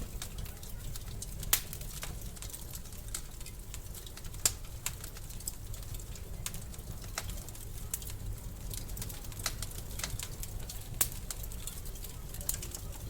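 Wood fire in a fireplace crackling: irregular sharp pops and snaps, the loudest about a second and a half in, near four and a half seconds and near eleven seconds, over a steady low rumble.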